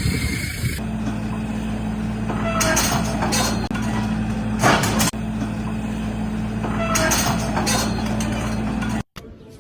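A heavy vehicle's engine running steadily at idle, broken three times by short bursts of noise; it cuts off abruptly near the end.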